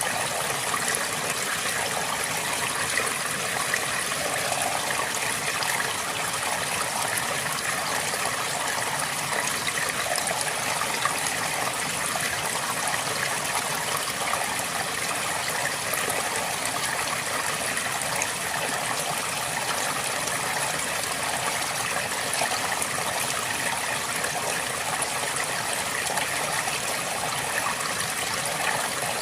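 River water flowing over rocks, a steady rushing and burbling without a break.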